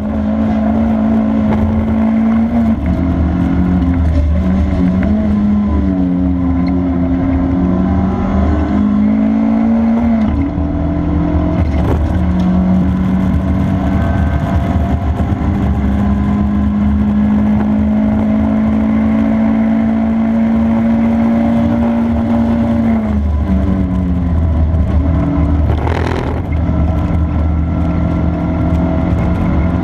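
Race car engine running hard at high revs, its pitch held steady for long stretches and stepping down and back up several times as it changes gear. There is a brief sharp noise near the end.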